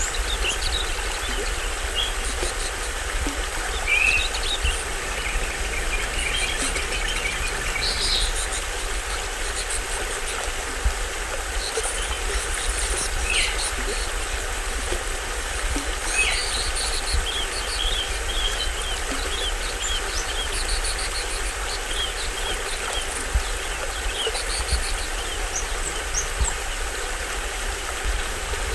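Small stream waterfall splashing steadily, with forest birds giving short chirps now and then.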